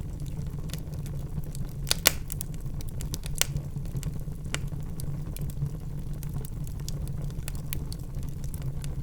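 Wood fire of burning logs in a fireplace crackling: a steady low flame rumble with scattered sharp pops and snaps, the loudest about two seconds in.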